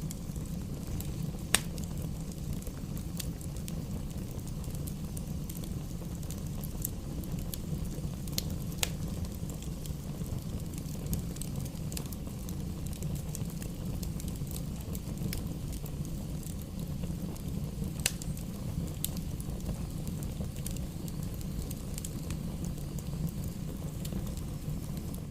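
Wood fire burning in a fireplace: a steady low rumble of flames with scattered sharp crackles and pops of the burning logs.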